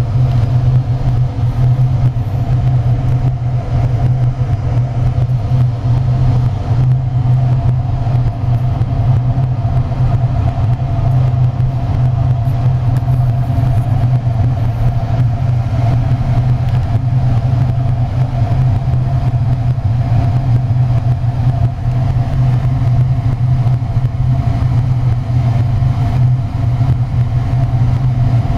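Biomass gasifier furnace running on test: a loud, steady low rumble with an even hum over it, the sound of the burning gas flame and the unit's machinery.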